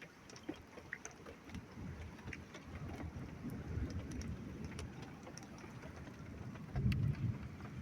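Low rolling thunder that builds over several seconds and surges loudest near the end, with scattered ticks of rain.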